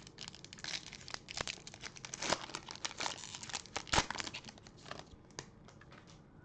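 A foil trading-card pack wrapper being torn open and crinkled by hand, an irregular run of crackles with a few sharper snaps, the loudest near the middle, dying away about a second before the end.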